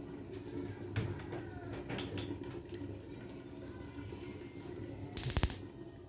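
Kitchen clatter over a steady low hum: a few light clinks, then a brief loud rattle about five seconds in.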